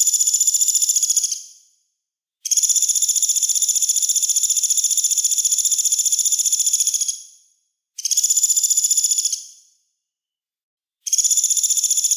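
Songbird giving a harsh, shrill rasping buzz (besetan) in bursts, the kind used in masteran recordings to train cage birds such as the white-rumped shama. There are four bursts, each a fast, even rattle at a steady high pitch. The second burst lasts about five seconds, and the others are shorter and fade out.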